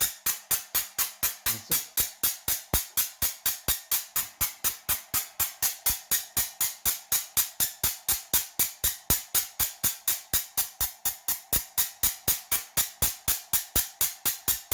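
Small high-voltage spark generator arcing in a rapid, even series of sharp snaps, about four to five a second, each spark discharge a crisp crack.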